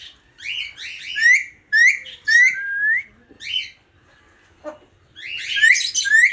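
Pet parrot whistling: a string of short, rising whistles, with a pause of about a second past the middle and a quick run of whistles near the end.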